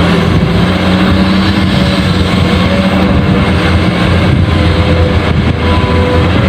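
A steady engine-like drone, a low hum with a hiss over it, holding level without a break.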